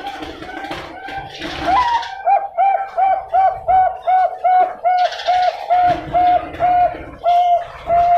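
Zebra dove (Bangkok perkutut) singing: soft low cooing, then about two seconds in a rising opening note and a long run of short, evenly spaced coos, about three a second.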